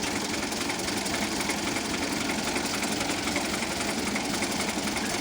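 Tractor diesel engine running steadily with a rapid, even chugging.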